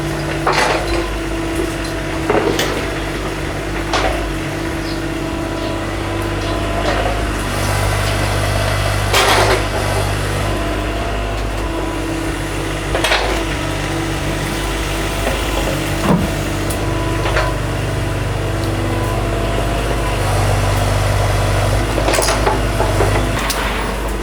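A small engine running steadily, with sharp knocks now and then over it.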